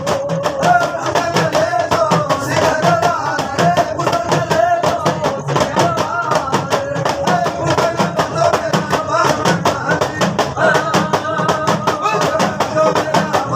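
Rajasthani devotional folk music: a wavering melody line over a fast, even percussion beat.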